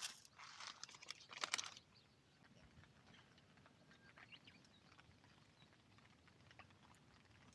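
A brief rustling noise with a few sharp clicks in the first two seconds, then near silence broken only by faint, scattered ticks of rain dripping and pattering on the tent.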